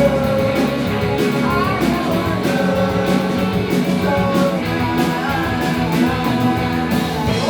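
Live rock band playing guitar, bass and drums, with a steady beat of drum and cymbal hits. Near the end the drums stop and a held chord rings on as the song ends.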